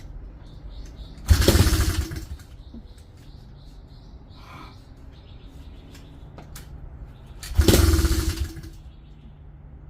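140cc pit bike engine turned over twice, each time sputtering for under a second and dying without catching. It almost starts, which the owner takes for a sign that it is not getting fuel.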